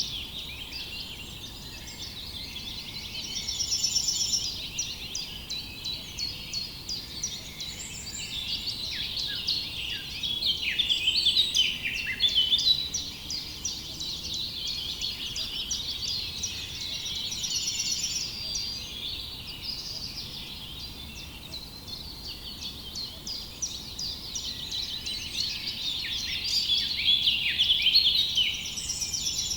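A chorus of many small songbirds chirping and singing at once: a dense, continuous tangle of high chirps and quick trills that swells and ebbs several times.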